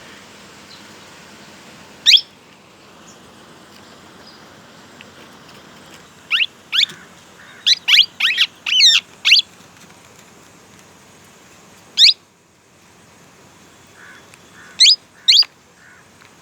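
Young plum-headed parakeets giving short, sharp, upward-sweeping calls. There is one call about two seconds in, a quick run of about eight between six and nine seconds, another at twelve seconds, and two more near the end. A steady low hiss runs underneath.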